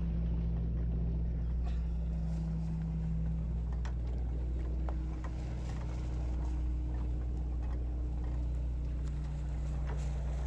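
Sportfishing boat's engine running with a steady low hum, with a few faint clicks and knocks over it.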